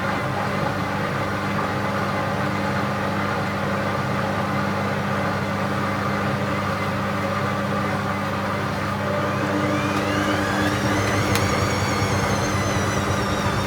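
Bauknecht WA 7778 W front-loading washing machine running with a steady hum; from about ten seconds in, its brushed motor's whine rises in pitch as the drum speeds up, then eases slightly near the end.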